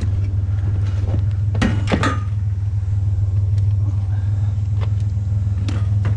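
Truck engine idling with a steady low rumble. Over it come a few sharp metal clanks and knocks from scrap being handled, the loudest two close together about one and a half to two seconds in.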